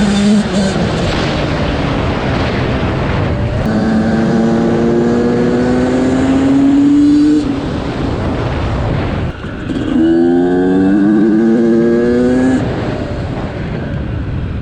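Motorcycle engine accelerating hard: its pitch climbs steadily, drops at a gear change about halfway through, then climbs again, under loud wind rush.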